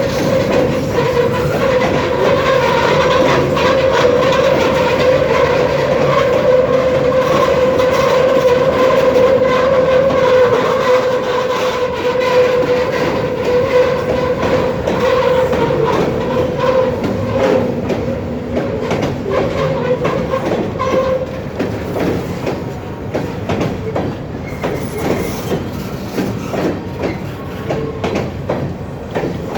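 Freight train cars rolling past, their wheels clacking steadily over the rail joints. A steady whining tone rides over the clacking and fades out about two-thirds of the way through.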